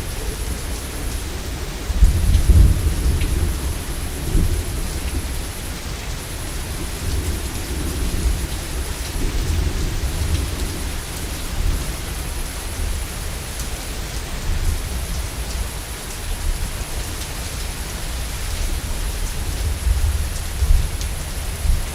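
Heavy rain falling steadily with rolling thunder. A loud rumble begins about two seconds in, and lower rumbles come and go after it, with another swell near the end.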